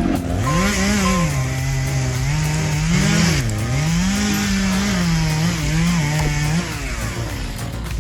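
Two-stroke chainsaw running at high revs as it cuts wood, the engine pitch rising and dipping repeatedly as the chain bites and frees. The engine note drops away about a second before the end.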